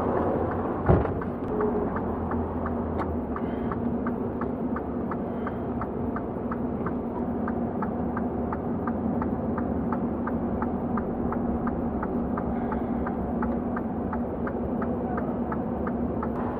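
Semi-truck's diesel engine running steadily, with an even light ticking about three times a second over it. A single sharp knock about a second in.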